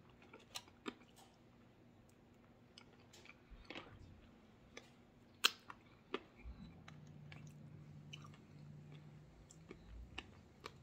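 Quiet, close-up chewing and biting of a buffalo hot wing, with scattered wet mouth clicks and smacks, the sharpest about halfway through.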